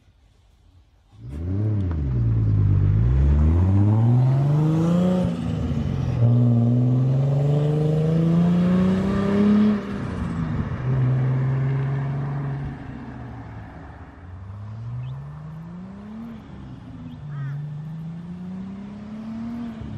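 Turbocharged Ford Barra straight-six, swapped into a Nissan Y61 Patrol, accelerating hard through the gears. The engine note climbs, drops at each gear change and climbs again. It is loud at first and fainter in the second half, with more rises near the end.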